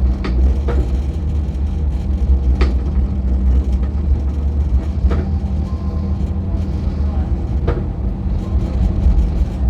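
MTR Light Rail car running along the track: a steady low rumble and hum, with a few short sharp clicks scattered through it.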